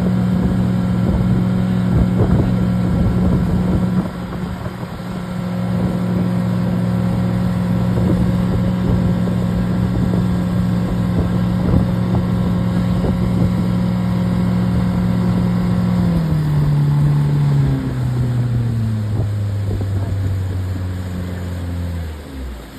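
Motorboat engine running steadily at speed, with wind and water noise, then throttling back from about three quarters of the way through, its pitch falling in steps until it dies away near the end as the boat slows.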